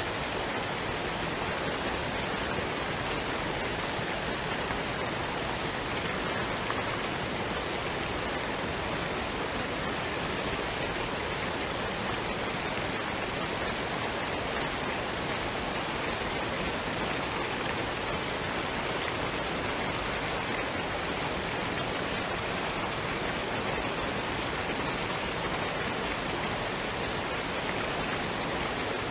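Waterfall and stream water rushing in a steady, even wash of noise.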